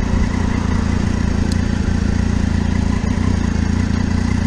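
Motorcycle engine running steadily, holding an even speed.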